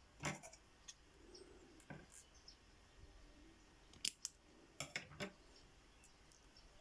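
Several faint, sharp clicks and snips from small fishing tackle being handled while a carp rig is made up. The loudest comes near the start, a pair about four seconds in, and three close together about five seconds in.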